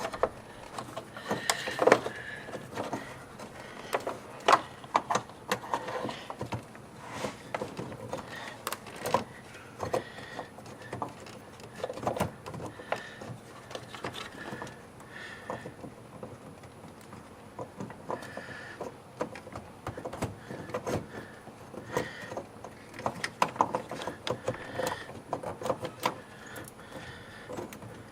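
Irregular clicks, taps and rattles of hands working an LED headlight bulb into a Dodge Charger's headlight housing, small plastic and metal parts knocking together.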